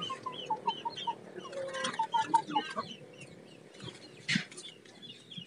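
Birds calling in a quick series of short chirping notes, several a second, with one brief harsher call about four seconds in.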